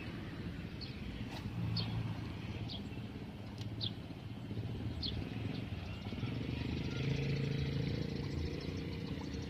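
A bird giving short, high, falling chirps about once a second for the first five seconds, over the low steady hum of a distant engine that grows louder near the end.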